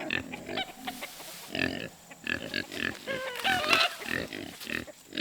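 An animal calling in short repeated grunt-like sounds, several a second, with a run of higher, wavering calls about three seconds in.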